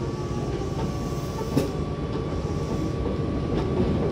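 Hankyu Kyoto Line electric train running, heard inside the passenger car: a steady low rumble of wheels on rail with a faint steady whine. Scattered clicks from the track, and one sharper knock about one and a half seconds in.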